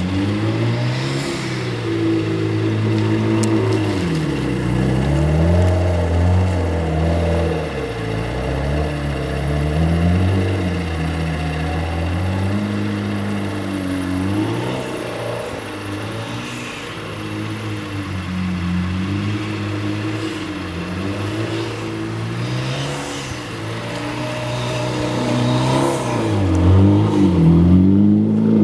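2008 Mitsubishi Lancer Evolution X's turbocharged 2.0-litre four-cylinder, through an aftermarket Buschur catback exhaust, revving up and dropping back again and again as the car spins its wheels and slides sideways on snow. It is loudest near the end.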